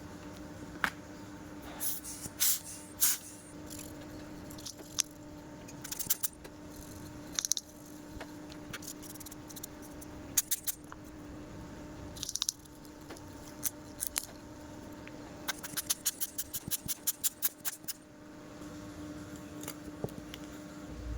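Small metal and plastic parts of a Sony Walkman cassette mechanism being handled with tools during a belt replacement: scattered light clicks, taps and scrapes, with a quick run of about a dozen ticks near the end. A steady low hum sits underneath.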